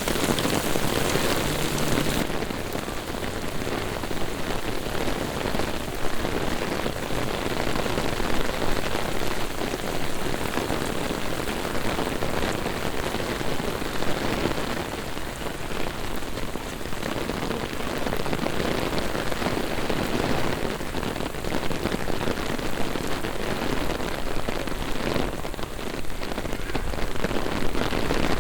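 Heavy rain pouring steadily onto city streets and pavement, a dense hiss of splashing drops. The highest part of the hiss softens about two seconds in.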